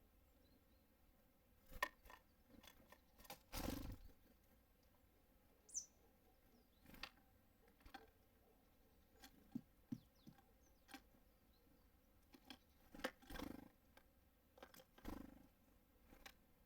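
Small birds at a feeder: scattered sharp taps and knocks with a few longer rustles, and one short high call about six seconds in.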